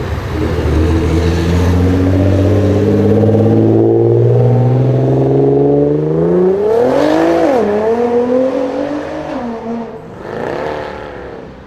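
Nissan GT-R R35's twin-turbo V6 revving up, its pitch climbing slowly and steadily for about six seconds, then rising and falling sharply a few times before dropping away near the end.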